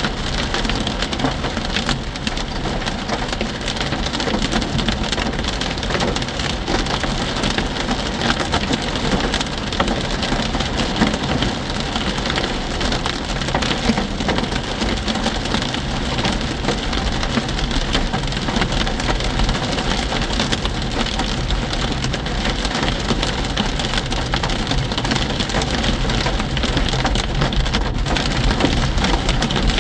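Hailstorm with heavy rain: a dense, steady clatter of countless small hailstone and raindrop impacts.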